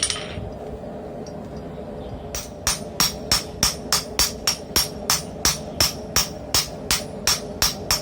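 Hand hammer striking hot steel on the anvil, a steady run of about three ringing blows a second that starts a couple of seconds in, over a steady hum.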